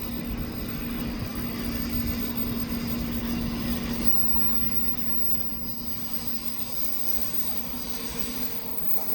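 Shinkansen train at a station platform: a steady rumble with a low hum, loudest a few seconds in and then easing. A higher hum takes over near the end.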